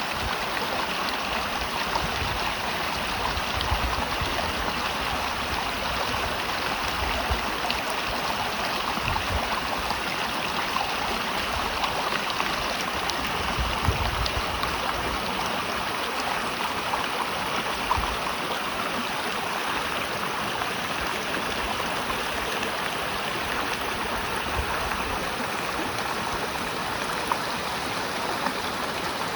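Shallow river running over rocks, a steady rushing and babbling of water.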